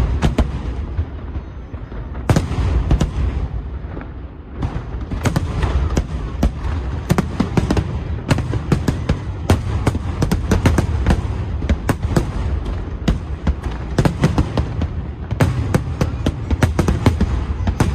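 Aerial fireworks going off in quick succession: a dense string of sharp bangs and crackles over a continuous low rumble, thickening from about five seconds in.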